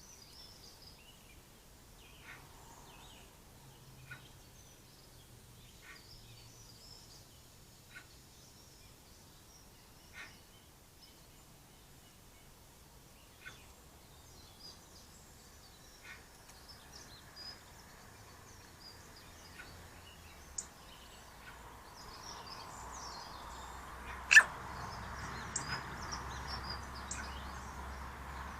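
Garden birds chirping with short, scattered high calls over a steady outdoor background hum that grows louder in the last third, with one sharp click near the end.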